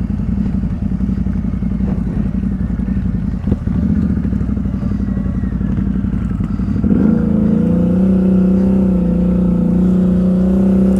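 ATV engine running steadily while riding a trail, with a single knock a few seconds in. About seven seconds in, the engine gets louder and settles into a stronger steady drone as the throttle is held open.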